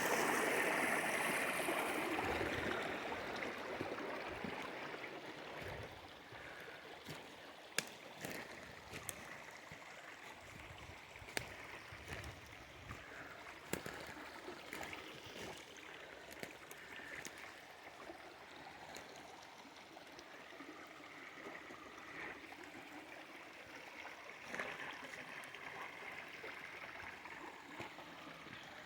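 Water running through a small inlet channel into a pond: a rushing stream sound, loudest at first and settling within a few seconds into a softer steady flow. A few sharp clicks come through now and then.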